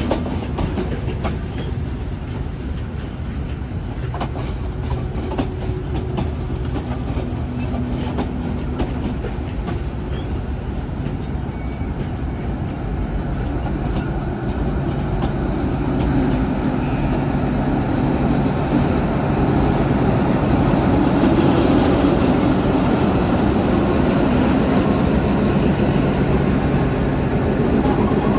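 Diesel train running on track, its engine drone steady under sharp wheel clicks, growing louder about halfway through.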